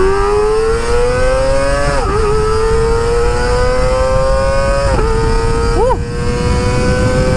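Kawasaki ZX25R's 250 cc inline-four, through an Akrapovic exhaust, pulling hard at high revs. Its pitch climbs in each gear, with quick upshifts about two and five seconds in and another at the end. There is a brief up-and-down rise in pitch just before six seconds, over steady wind rush.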